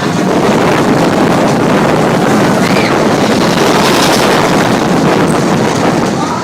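Mine-train roller coaster running along its track at speed: a loud, steady rumble and rattle, with wind buffeting the phone's microphone.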